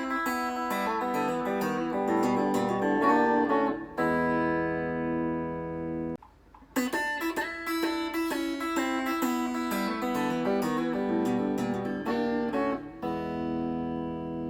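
ESP LTD EC-1000 electric guitar with EMG active pickups, played through an amp. Quick picked single notes and arpeggios, then a chord left to ring. The playing stops briefly about six seconds in, resumes with more picked runs, and ends on another ringing chord.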